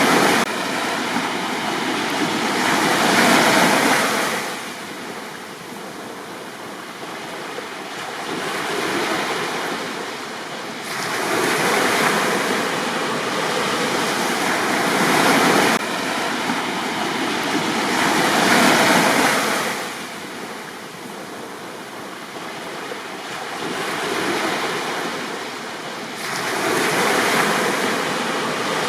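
Sea waves breaking and washing up a beach, the surf swelling and drawing back every few seconds.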